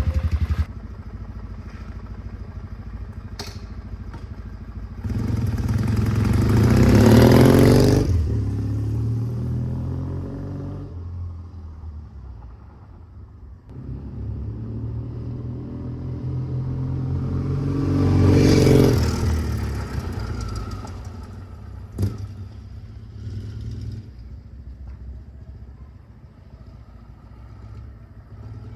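Kawasaki W650 parallel-twin with a Posh W1 aftermarket exhaust, heard twice swelling up loud and fading away as the motorcycle rides past, with a sharp click near the end and a fainter engine sound after it.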